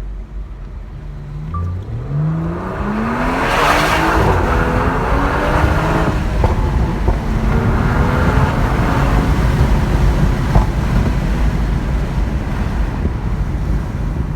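BMW 340i F30's turbocharged 3.0-litre straight-six accelerating hard, its note climbing steeply through the revs for about two seconds. After a drop around six seconds in it pulls again, then settles into steady engine and road noise at speed.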